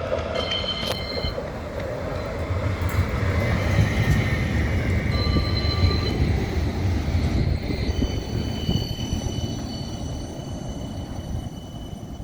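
A tram running past with a low rolling rumble that builds to a peak midway and then fades. High-pitched wheel squeal comes and goes over it, briefly at first and longest near the end.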